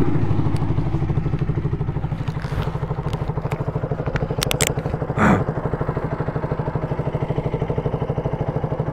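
KTM Duke 200's single-cylinder four-stroke engine idling with an even, steady pulse, easing down from a higher level at the start. A few light clicks come about four and a half seconds in, followed by a brief louder sound.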